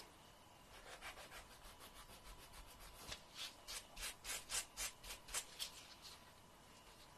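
Fingernail being filed with a nail file: a run of quick back-and-forth rasping strokes, about three or four a second, starting about a second in, building to the loudest strokes in the middle and stopping about six seconds in.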